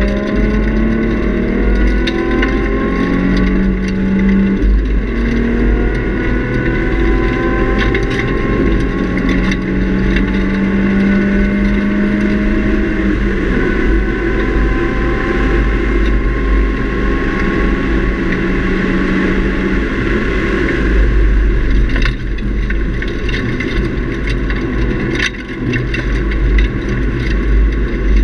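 2003 Nissan 350Z's V6 with a Nismo cat-back exhaust heard from inside the cabin under hard acceleration on track: the engine note climbs in pitch through the gears in the first several seconds, then holds steady for a long stretch, over heavy road and wind rumble.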